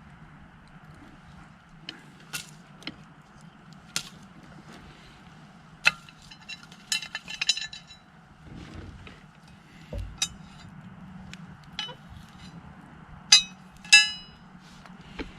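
Scattered light clinks and knocks of camp cooking gear being handled, several with a short metallic ring; the two loudest come close together near the end.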